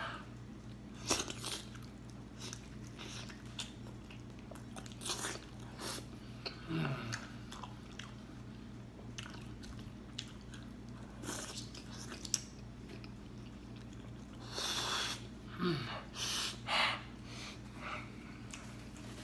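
Close-up mouth sounds of a person eating rotisserie chicken dipped in nacho cheese sauce: chewing with irregular wet smacks and clicks. A few longer, noisier smacking bursts come about three-quarters of the way through.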